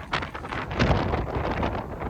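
Strong typhoon wind buffeting the microphone in gusts, with a heavy low rumble that surges about a second in.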